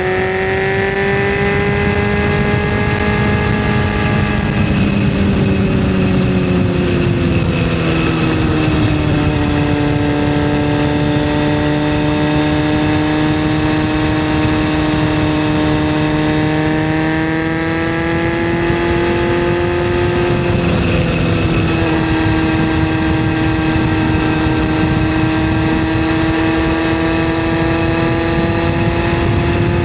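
Yamaha FZS600's inline-four engine running under way at a fairly steady pitch, with wind rushing past. The engine note drops between about four and nine seconds in and dips briefly again around twenty seconds in, then settles back.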